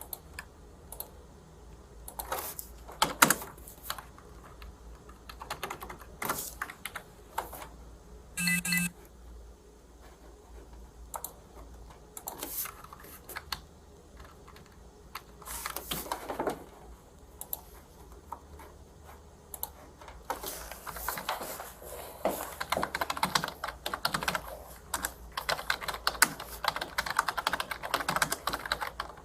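Typing on a computer keyboard: scattered keystrokes at first, then rapid, continuous typing for the last third. A short electronic beep sounds about a third of the way in.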